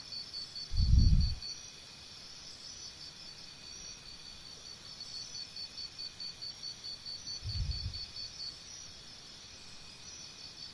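Faint, high-pitched insect chirping, about four pulses a second, which stops for a few seconds midway and then resumes. Two dull low thumps come through, one about a second in and a softer one near eight seconds.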